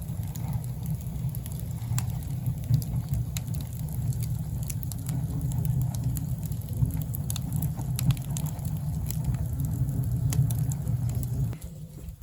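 Wood fire burning in a firebox: a steady low rumble with scattered sharp crackles. It drops away shortly before the end.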